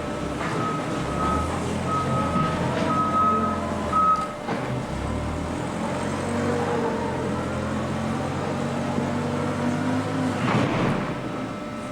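Baler and conveyor machinery running with a steady hum and shifting tones, while a backup alarm beeps about five times in the first four seconds. A short loud rush of noise comes near the end.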